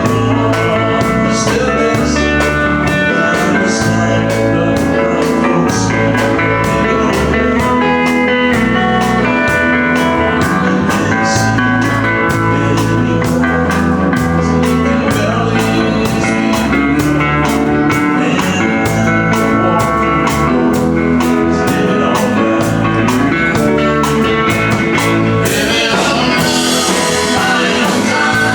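Live country-rock band playing an instrumental passage: guitar over bass and a steady drum beat. Cymbals wash in near the end.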